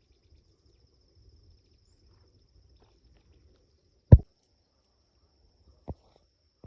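Cricket trilling steadily and faintly in the background. Two dull thumps about four and six seconds in, the first much louder, and a faint third at the very end.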